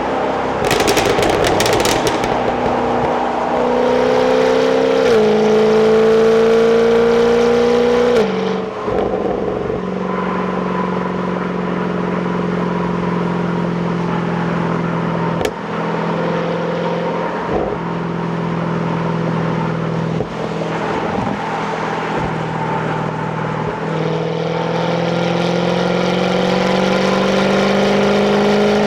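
Jaguar F-Type's supercharged 5.0-litre V8 on its stock exhaust, heard from the passenger seat while driving. The engine note climbs, drops at an upshift about five seconds in, climbs again and falls away about eight seconds in. It then holds steady at cruise and pulls up again over the last few seconds.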